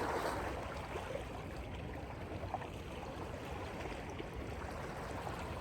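Steady wash of sea and wind noise, with the low rumble of wind buffeting the phone's microphone and a few faint ticks.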